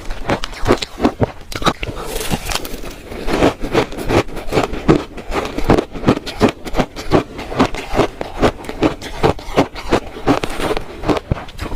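Close-miked crunching of shaved ice being bitten and chewed, a rapid run of short crackly crunches, several a second.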